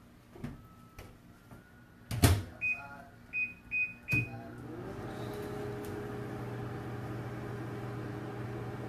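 Microwave oven door shut with a knock, four short keypad beeps and a clunk, then the microwave starts running with a steady hum.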